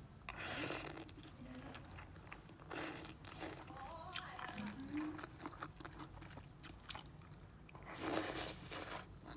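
Close-miked eating of instant curry noodles: chewing, with several loud noisy slurps. The longest slurp comes near the end. There is a short hum-like vocal sound about halfway.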